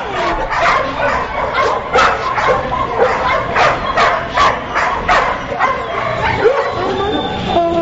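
Many dogs barking and yipping at once in a kennel, overlapping short barks several a second, with some high whines and yelps.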